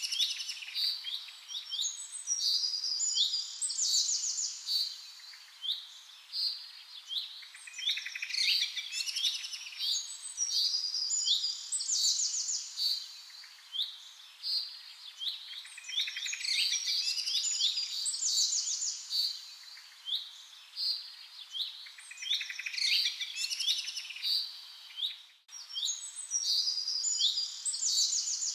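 Songbirds chirping and singing: quick high chirps, swooping notes and rapid trills, in bouts that recur every several seconds. The sound cuts out for an instant about 25 seconds in.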